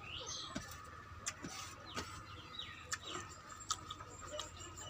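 Birds chirping in short downward-sliding calls, with several sharp clicks scattered through.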